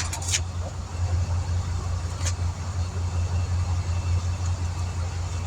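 A motor running with a steady low hum that pulses slightly, with a few light clicks near the start and another about two seconds in.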